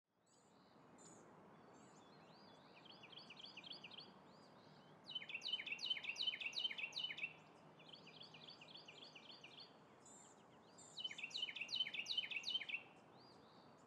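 Songbird singing: phrases of quick, repeated down-slurred notes, each about two seconds long, coming every few seconds, with fainter phrases alternating with louder ones. A faint steady outdoor hush lies underneath.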